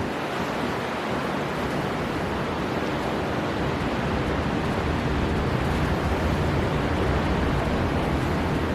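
Storm wind and sea surf: a steady, even rush of wind and breaking waves with no distinct impacts.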